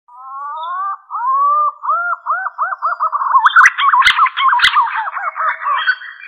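Green pigeon (punai) whistled song: a few rising whistles, then a quickening run of looping, arched notes around one pitch. Two sharp clicks come about four seconds in.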